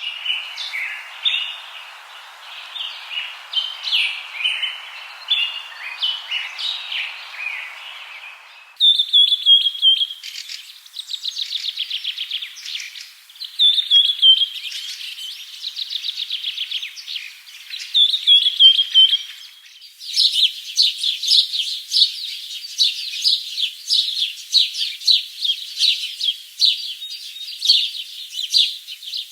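A flock of budgerigars chattering and warbling: dense, fast chirps and squeaky trills. The sound changes abruptly twice, about nine and twenty seconds in.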